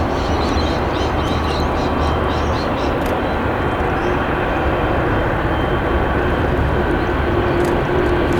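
Aircraft engine noise, steady and loud.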